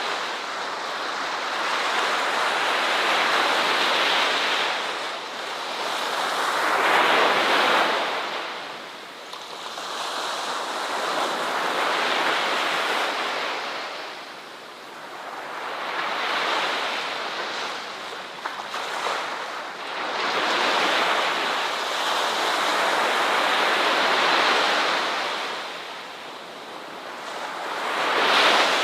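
Ocean waves breaking and washing up on a shore. The wash rises and falls in slow surges every four to five seconds, about six swells in all.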